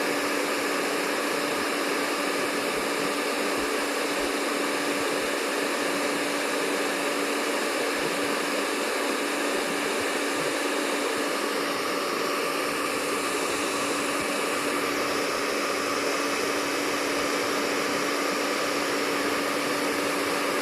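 Hair dryer running steadily: an even rush of blown air with a constant hum from its motor.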